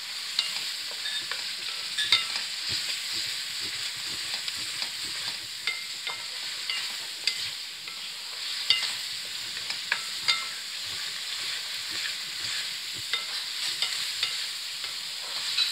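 Boiled red kidney beans frying in oil and spice masala in a metal pan, sizzling steadily, while a wooden spatula stirs and scrapes them with scattered short clicks against the pan: the beans are being roasted (bhuna) in the masala.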